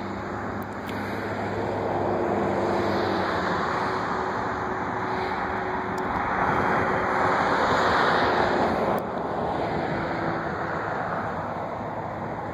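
A rushing roar that swells to its loudest about eight seconds in and drops suddenly about a second later, with a low steady hum underneath.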